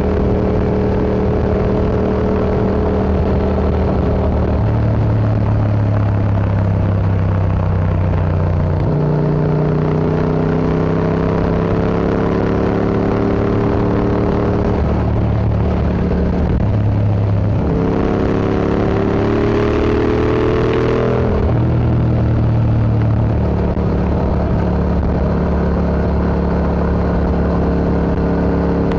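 Yamaha MT-07 parallel-twin engine running through an Akrapovic Racing Line exhaust while riding. The engine note steps up and down several times as the revs change, with a rising pull about two-thirds of the way through.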